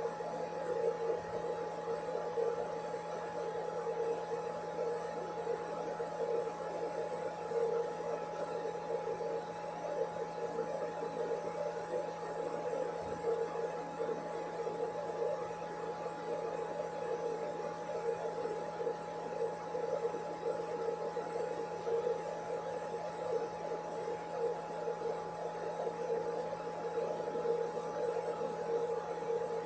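Blow dryer recording playing back: the dryer runs steadily with an even hum and a constant whine, without a break.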